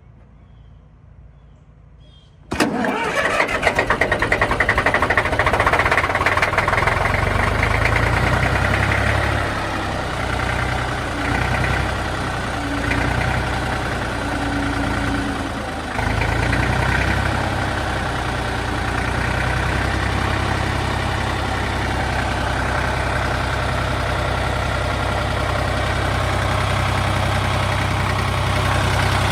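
Porsche 329 tractor's air-cooled three-cylinder diesel engine starting after glow-plug preheating: it catches suddenly about two and a half seconds in and runs loud. Its sound dips partway through and picks up sharply again just past halfway.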